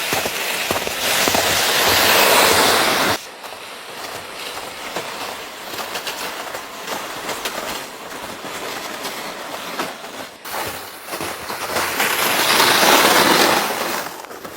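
Blizzard wind gusting in swells of rushing noise. A strong gust cuts off abruptly about three seconds in, and another builds and peaks near the end.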